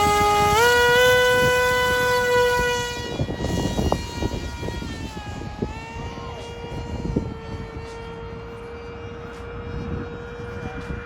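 Electric motor and pusher propeller of a foam-board RC plane run by a 3-cell LiPo, whining as the throttle comes up: the pitch climbs over the first second and holds loudest for a few seconds, then settles slightly lower and quieter.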